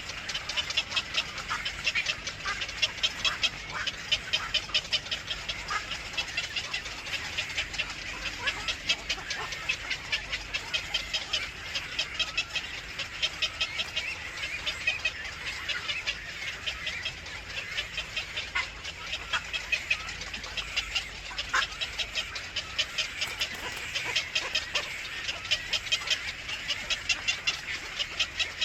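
Nestlings in a nest cheeping continuously: many rapid, high-pitched calls a second.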